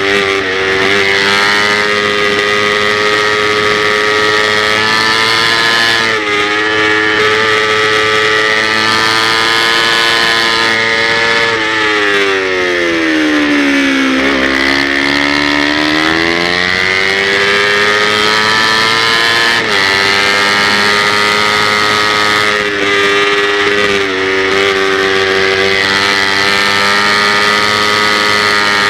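Kawasaki Ninja 250 race bike's engine running at high revs, with brief dips in pitch a few times, like gear changes. About halfway through, the revs fall steadily for a couple of seconds and then climb back up.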